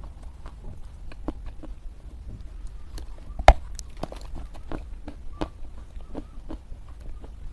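Soft crunching of lumps of Chinese loess clay being bitten and chewed: a run of small irregular crackles, with one sharp, louder crunch about halfway through.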